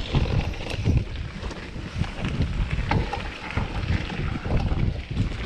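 Wind buffeting the microphone: an irregular low rumble, with a few sharp knocks or rattles mixed in.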